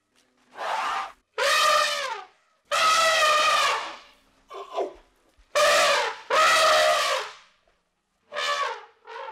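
A series of about eight drawn-out animal calls, each roughly half a second to a second long, with a clear, brassy pitch that drops at the end of each call.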